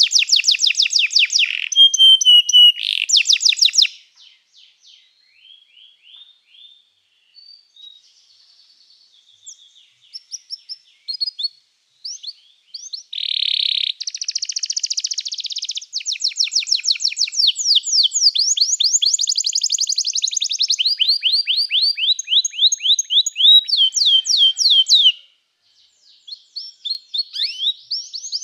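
Domestic canary singing in fast, even trills and rolls. The song goes quiet to scattered soft notes from about 4 to 12 seconds in, then comes back loud and unbroken, with a short break near the end.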